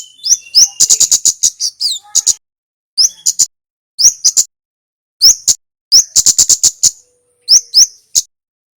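Male flowerpecker (kemade) calling: quick runs of sharp, very high ticks mixed with short rising chirps, in bursts separated by brief silences, stopping near the end.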